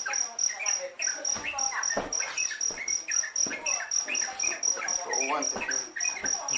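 High cricket-like chirping that pulses about four times a second without a break, over a busy run of short rising and falling chirps from baby yellow-vented bulbuls.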